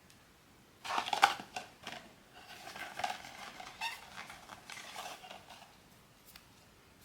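Packaging of a blind-box figure being handled: rustling and crackling in two stretches, a short loud one about a second in and a longer one after it, then a single small click near the end.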